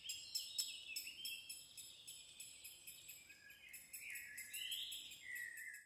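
Faint chorus of songbirds: warbling phrases that slide up and down in pitch over many quick, high chirps.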